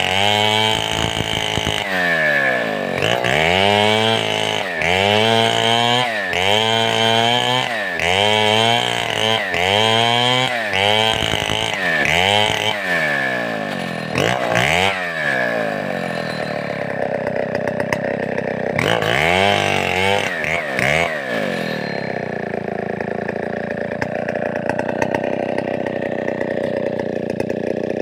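Large two-stroke Stihl 070-type chainsaw revved rhythmically with the throttle, its pitch rising and falling about once a second. After about thirteen seconds come a few slower, spaced revs, then it settles to a steady idle for the last several seconds.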